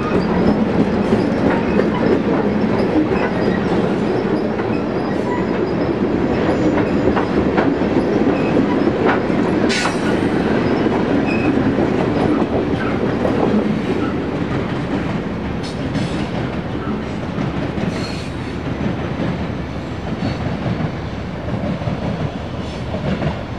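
Loaded ballast hopper cars of a work train rolling past at low speed, their wheels rumbling and clicking over the rail joints. The sound fades gradually as the train pulls away.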